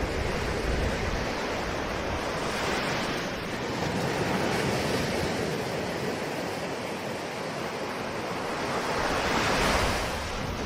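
Ocean waves washing onto a shore in a continuous hiss, swelling and easing, with a larger wave surging near the end.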